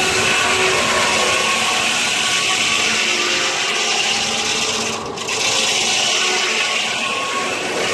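Sawmill blade, powered by a 1926 Keck Gonnerman steam traction engine, cutting steadily through a log. The sound briefly dips about five seconds in.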